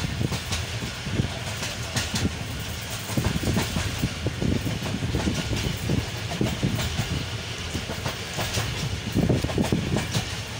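Passenger train running at speed: a steady low rumble of the carriage with wheels clattering over the rail joints in irregular knocks, heard through an open carriage window.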